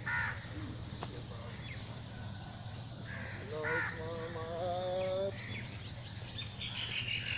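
Crows cawing several times over a steady low hum. A high pulsing buzz sets in near the end.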